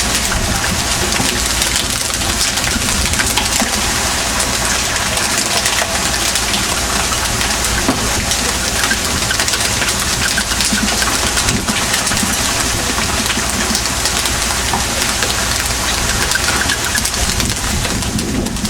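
Boat engine running steadily beneath a loud, even rushing hiss.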